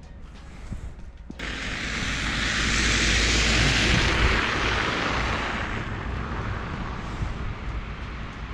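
Background music cuts off abruptly just over a second in, giving way to a rush of passing-vehicle noise that swells to a peak about three seconds in and slowly fades.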